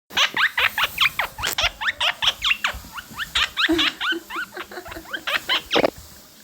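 Quaker parrot (monk parakeet) chattering in a rapid string of short, shrill chirps that sweep downward, about four or five a second.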